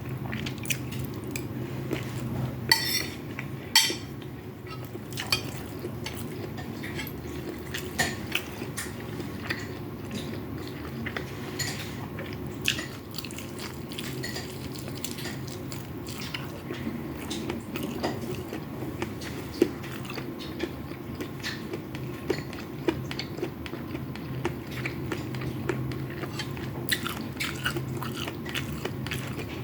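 Close-up eating sounds: chewing fried rice with chicken and vegetables, with utensils clicking and scraping on a plate throughout. There are two sharper clinks about three and four seconds in, over a steady low background hum.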